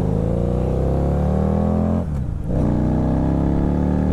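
Harley-Davidson V-Rod's V-twin engine accelerating, its pitch rising steadily. About two seconds in it drops briefly for a gear change, then climbs again.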